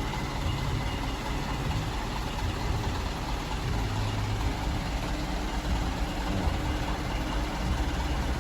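Diesel truck engine running steadily at a low, even pitch, with no revving.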